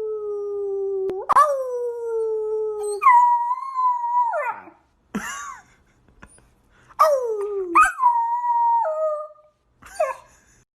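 A dog howling: a run of drawn-out howls, each one to two seconds long and most sliding down in pitch, with a short pause around the middle.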